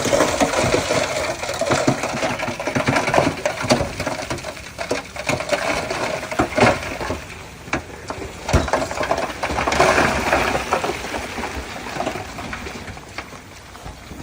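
Komatsu D31P bulldozer working, with many irregular metallic clanks and rattles over its low engine noise. The clanking is louder in the first half and fades somewhat toward the end.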